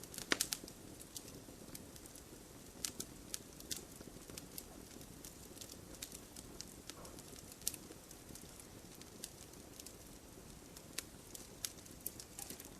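Wood fire burning with a low steady rustle and irregular sharp crackles and pops, a quick cluster of louder pops just after the start.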